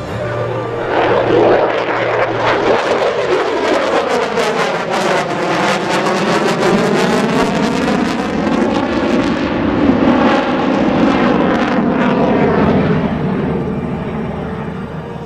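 F-22 Raptor fighter jet making a loud pass, its engine noise swelling about a second in, sweeping in pitch as it goes by, with heavy crackle in the middle, then fading near the end.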